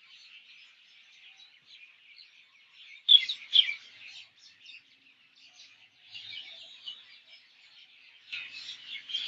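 A mix of different birds chirping, a chorus of short high chirps. Two louder chirps come about three seconds in, and the chirping grows busier toward the end.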